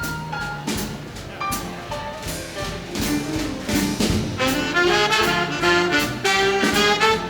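Live big band playing swing jazz: a single horn line over the rhythm section's steady cymbal beat, then the full horn section comes in louder about four and a half seconds in.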